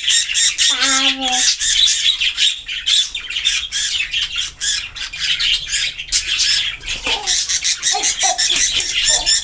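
Many small birds squawking and chirping nonstop, a dense stream of rapid high-pitched calls.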